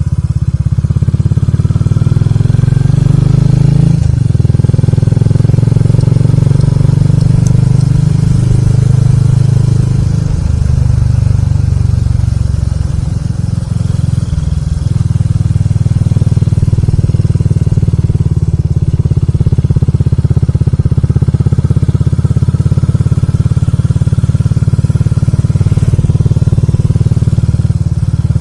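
A motorcycle being ridden on the road, its engine pitch rising and falling with the throttle and a slight easing off partway through, under a heavy rumble of wind noise on the rider's microphone.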